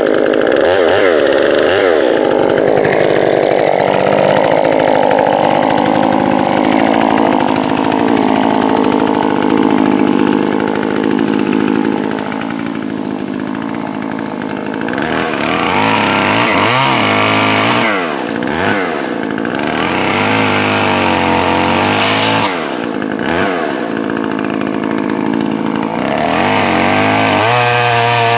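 Poulan Pro 4620 two-stroke chainsaw running at high revs. About halfway through, the engine pitch starts dipping and recovering over and over as it bogs under load cutting wood and revs back up. The engine is freshly fitted with a new piston and run rich for break-in.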